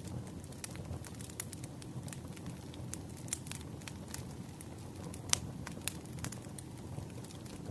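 Wood campfire burning: a low, steady rumble with scattered sharp crackles and pops, one louder pop about five seconds in.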